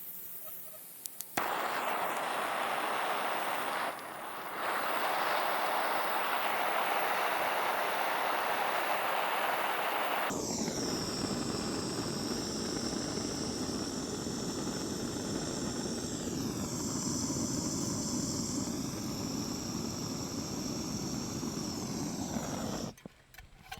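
Gas blowtorch flame hissing steadily while heating a copper pipe fitting for soldering. About ten seconds in the sound changes and a high, wavering whistle rides over the hiss.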